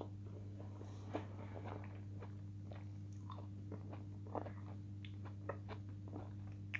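A woman chewing a mouthful of food with her lips closed, close to the microphone: a string of short, irregular wet clicks and smacks. A steady low electrical hum runs underneath.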